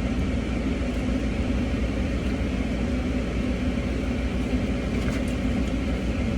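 Steady low hum of a car's engine idling, heard from inside the cabin, with a few faint clicks near the end.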